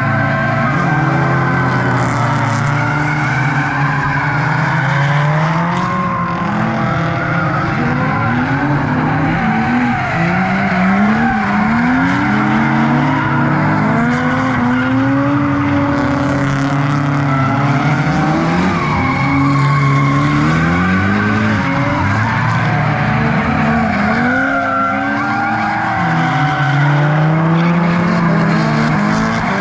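Several drift cars sliding in a close tandem train, their engines revving up and down over one another, with tyre squeal.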